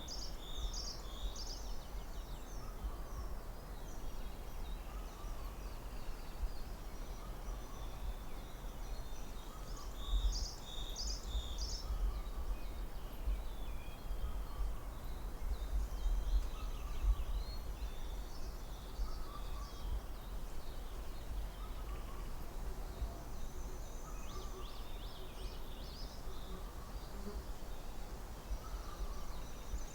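Forest ambience: songbirds singing short repeated phrases on and off throughout, over a steady low wind rumble, with a fainter call repeating every couple of seconds.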